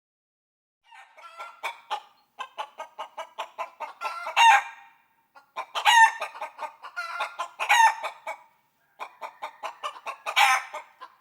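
Chicken clucking in quick runs of short pulses, broken by several louder drawn-out squawking calls.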